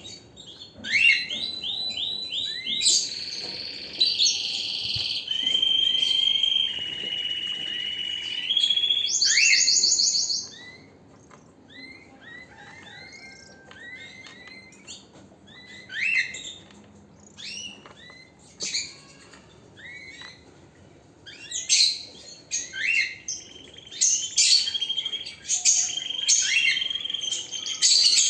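Domestic canary singing: a continuous run of rapid trills and held rolling notes that ends in a fast buzzing trill about ten seconds in, then scattered short chirps, with the full song starting up again for the last several seconds.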